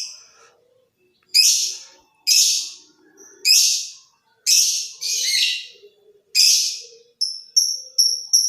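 Lovebird giving loud, harsh, screechy calls about once a second, six in all, each fading away, then a run of short quick chirps coming faster near the end.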